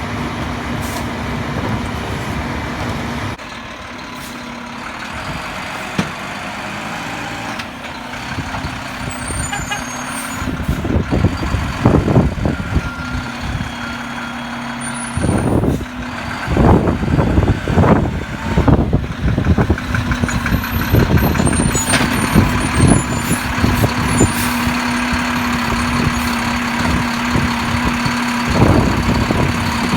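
Garbage truck working up close: its diesel engine runs steadily, with a run of loud, irregular surges of noise between about 11 and 20 seconds in.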